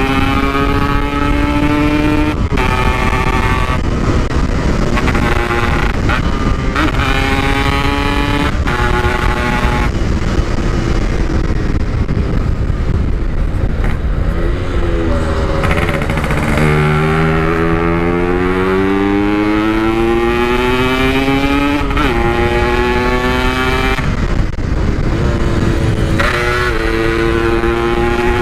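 Yamaha RX-King 135cc two-stroke single with a Packing Power aftermarket muffler, ridden flat out. Its pitch climbs and breaks off again and again as it shifts through the gears. Midway the revs drop briefly, then it pulls in one long rising climb, over a steady rush of wind and road noise.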